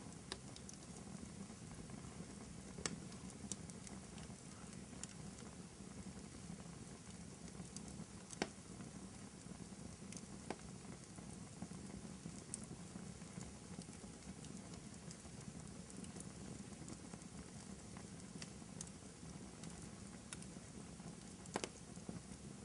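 Fireplace fire crackling under a steady low rumble, with scattered soft ticks and a few sharper pops.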